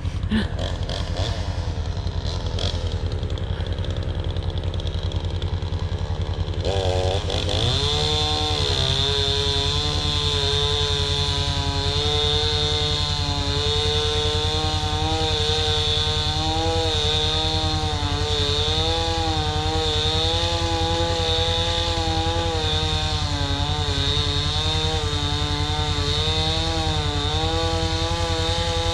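Chainsaw revving up about seven seconds in, then running at high speed with a wavering pitch as it cuts through a fallen tree trunk. A vehicle engine idles steadily underneath.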